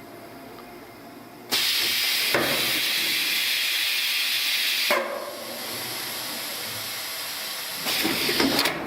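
Automatic refrigerator door gasket welding machine running its weld cycle: a loud air hiss starts suddenly about one and a half seconds in, drops to a lower, steady hiss at about five seconds, and a short rattle of the mechanism comes near the end.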